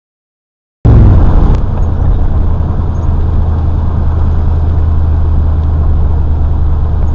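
Old pickup truck's engine running under way, a loud steady low drone with road and rain noise, cutting in abruptly about a second in and loudest at the start.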